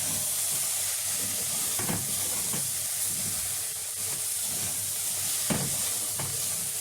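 Basmati rice and vegetables sizzling in hot oil in a pot while being stirred and sautéed, with a steady hiss and a few spoon scrapes against the pot.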